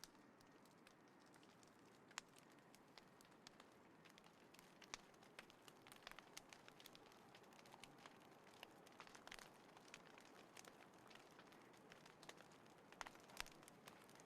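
Small wood fire crackling in a folding fire pit: irregular sharp pops and snaps over a soft hiss, coming more often in the second half.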